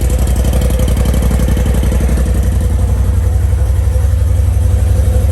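2021 Polaris RZR Turbo S's turbocharged twin-cylinder engine idling steadily through the stock exhaust, a low pulsing rumble with a little bit of a thump to it because the catalytic converter has been removed.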